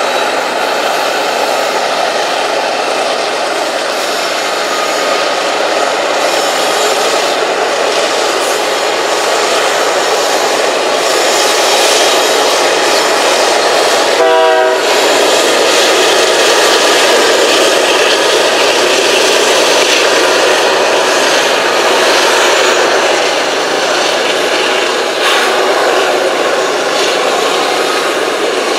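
Freight train hauled by Canadian Pacific and Union Pacific diesel locomotives passing close by: a loud, steady rumble of engines and wheels on the rails. A brief pitched note sounds about halfway through, as the locomotives go by.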